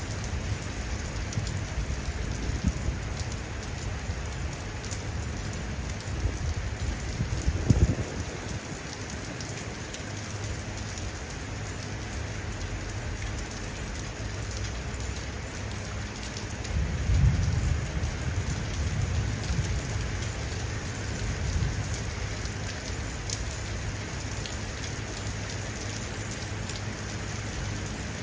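Steady heavy rain falling and pattering on surfaces. Low rumbles of thunder swell up twice, about eight seconds in and again near the middle.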